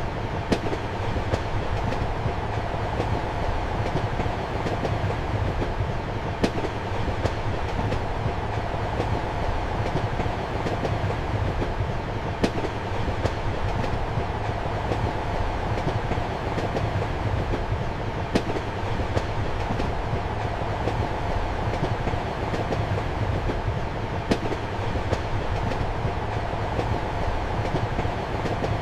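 Passenger train running, heard from inside a compartment: a steady rumble of wheels on the rails with light clicks from rail joints, and a sharper clack about every six seconds.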